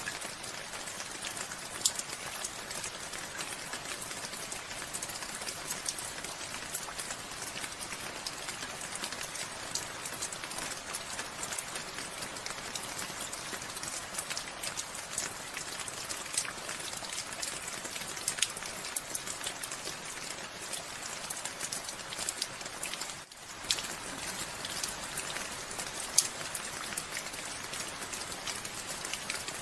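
Steady rainfall, an even hiss dotted with many sharp individual drop hits. It dips briefly about three quarters of the way through.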